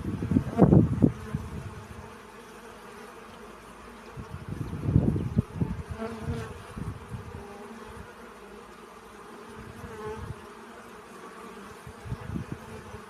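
Honeybees buzzing while foraging on flowers: a steady buzz with louder surges about a second in, around five seconds in and near the end.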